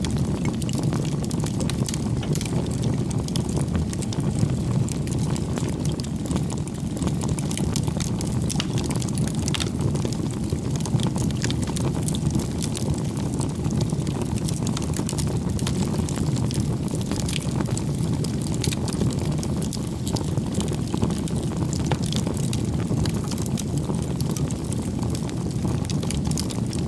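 Campfire burning: a steady low rush of flames with frequent small crackles and pops of burning wood scattered throughout.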